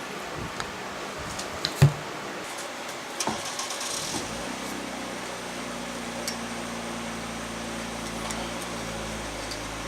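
A few sharp knocks and clanks, the loudest about two seconds in, and a brief hiss just before four seconds. Then a steady low motor hum starts and keeps running.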